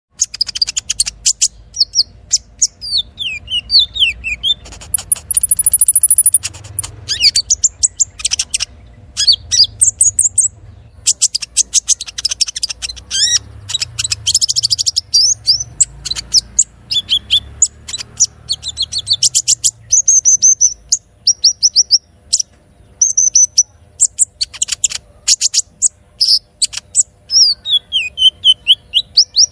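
A kolibri ninja (a sunbird) sings a long, loud lure song. It runs in rapid bursts of high chips and trills, mixed with quick falling slurred notes and a thin, high held whistle about five seconds in. The song is broken by short pauses.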